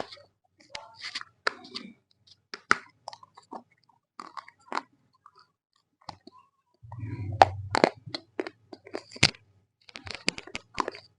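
Close-up crunching and chewing of roasted Multani mitti (fuller's earth clay): irregular sharp, crisp bites and grinding chews. They get denser and louder with a low hum about seven seconds in.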